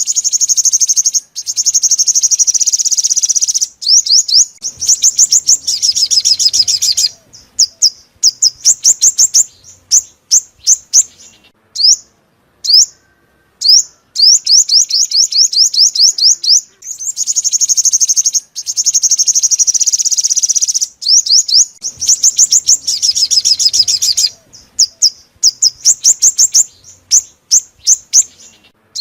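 Sunbird song: long, rapid, high-pitched trills broken by runs of sharp separate chirps and short pauses. The same sequence comes round again about halfway through, as in a looped lure recording played to draw sunbirds to a speaker trap.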